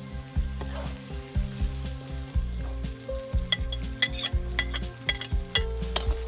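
Frog pieces sizzling as they are stir-fried in a steel wok, with a metal spatula stirring and scraping against the pan. In the second half there is a quick run of sharp metallic clinks as green leaves are tipped in and stirred.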